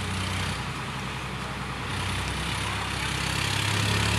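Tractor's diesel engine running steadily, getting louder over the last two seconds.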